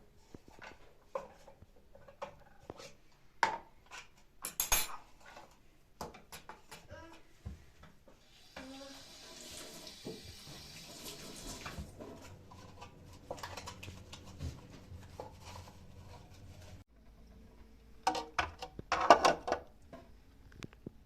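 Kitchen dishes and utensils being handled: scattered clinks and knocks, with a louder run of clattering near the end. In the middle a steady hiss runs for about eight seconds.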